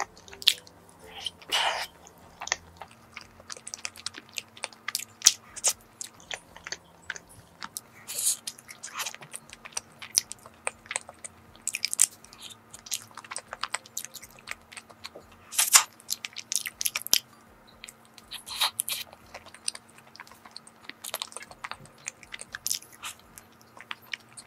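Close-miked mouth sounds of a person biting and chewing a soft cream-filled glutinous rice cake (chapssaltteok): irregular clicks and smacks, with louder bites every few seconds.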